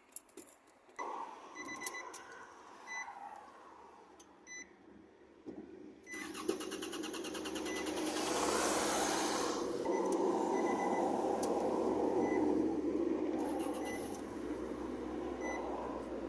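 2006 Nissan Altima's 2.5-litre four-cylinder engine: a few short beeps and clicks, then about six seconds in the starter cranks in a fast, even rhythm for about three seconds. The engine catches and settles into steady running, a test start after the fuel pump and cam sensor replacement.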